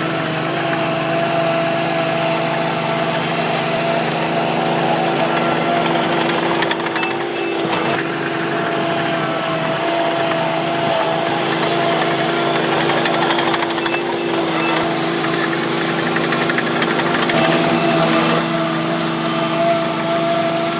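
Steady mechanical hum at a constant pitch with a rough noisy edge, dipping slightly in pitch a couple of times.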